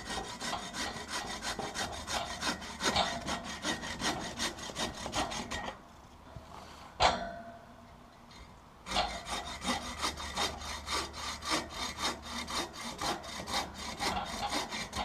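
A Sven saw, a folding steel-bladed bow saw, cutting firewood in rapid back-and-forth strokes. It works in two spells, with a pause in the middle broken by one sharp knock, the loudest sound in the clip.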